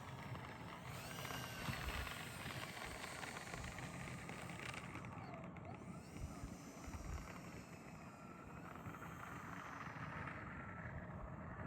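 Twin electric motors and five-blade counter-rotating propellers of an E-flite EC-1500 RC plane whining through a low pass, the pitch wavering and gliding up and down as it goes by, over a faint hiss.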